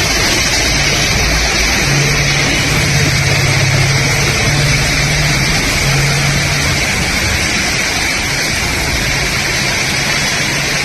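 Floodwater rushing in a steady, loud torrent. A vehicle engine hums steadily over it from about a second in until about seven seconds in.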